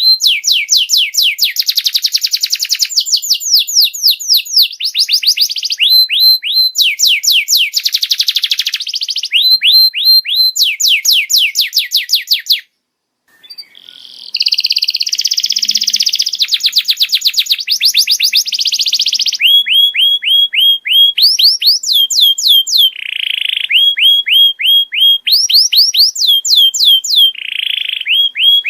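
Canary song: long rolling trills, each a fast run of repeated falling whistled notes, switching from one trill pattern to the next every second or two. The song breaks off for about a second a little before halfway, then carries on.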